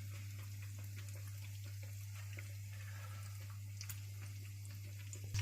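Breaded chicken pieces frying in hot oil: a faint, steady sizzle with scattered small crackles over a constant low hum. The sizzle grows louder just before the end.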